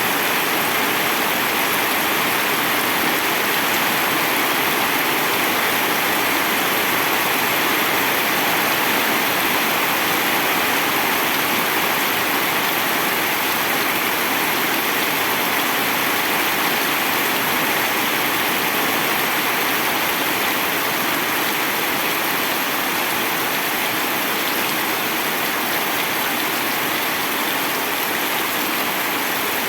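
Rain falling steadily: an even, unbroken hiss that holds the same level throughout.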